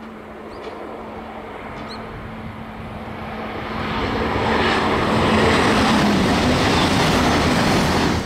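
E926 East-i Shinkansen inspection train passing at speed, a rushing noise that grows louder from about three seconds in and is loudest as the train goes by.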